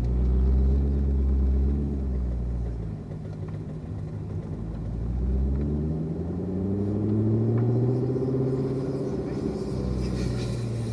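Chevrolet Corvette C7 Z06's supercharged V8 running at low revs, heard from inside the cabin. About five seconds in, the engine note rises steadily in pitch as the car gathers speed, then levels off.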